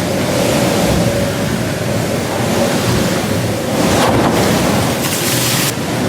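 Rushing water and wind aboard an IMOCA 60 racing yacht sailing fast, with wind buffeting the microphone. Spray hisses in louder surges about four seconds in and again shortly after five seconds.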